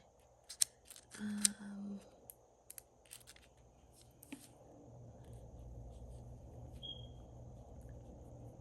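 Scattered sharp clicks and light handling noises from pen and planner pages being worked at a desk, with a low steady hum coming in about halfway through.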